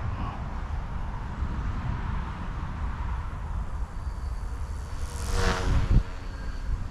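Micro electric RC helicopter (E150, direct-drive brushless) whining in flight over a low wind rumble on the microphone. The sound swells louder about five to six seconds in.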